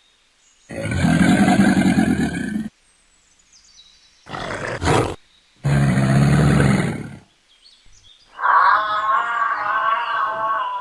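A large animal roaring: two loud roars of about two seconds each, with a shorter call between them. About eight seconds in, a pitched, wavering sound begins.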